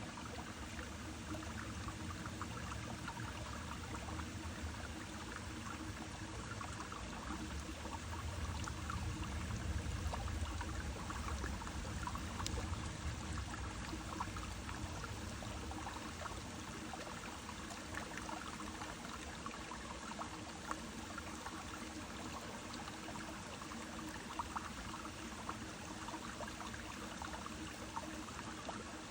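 A brook flowing and trickling steadily, with a low rumble underneath that is strongest in the middle.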